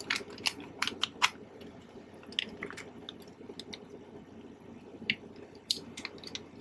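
Plastic parts bags being handled and crinkled while unpacking, irregular crackles and clicks, thickest in the first second or so and then sparser.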